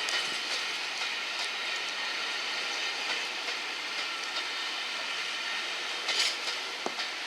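A train moving on the track, a steady running noise with faint rail clicks, and a brief louder hissing burst about six seconds in.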